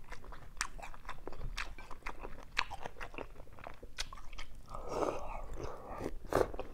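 Close-miked chewing and biting of soft cooked cucumber stuffed with pork: irregular wet mouth clicks and smacks.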